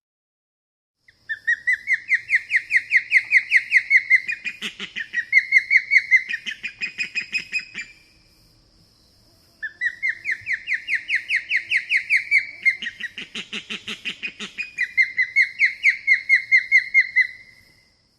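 A bird calling: two long series of rapid, evenly repeated sharp notes, about five a second, each series lasting around seven seconds. In each series the pitch climbs, then falls away, then steps up again before it ends.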